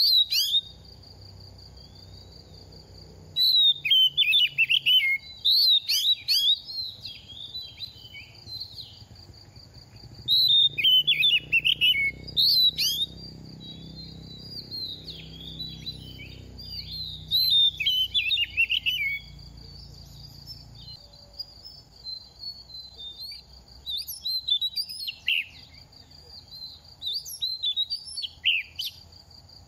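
Oriental magpie-robin singing in bursts of rapid, varied whistled phrases with short pauses between them, from a young bird singing readily while in moult. A steady high buzz runs underneath.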